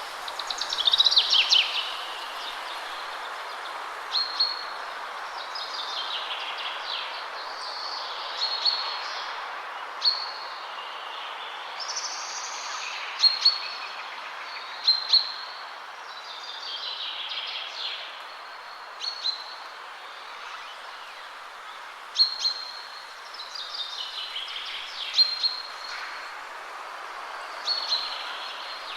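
Small songbirds singing short phrases every few seconds, several of them falling trills and others quick repeated notes, over a steady rush of wind through trees.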